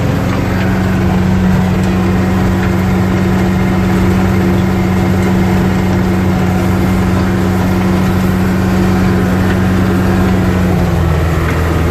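Yanmar US545's three-cylinder diesel engine running steadily at a fixed throttle while driving a rotary tiller through the soil. Near the end the engine note drops slightly.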